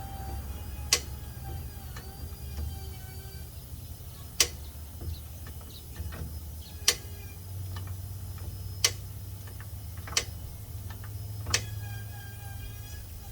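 Six sharp clicks, spaced about one to three seconds apart, over a low steady hum.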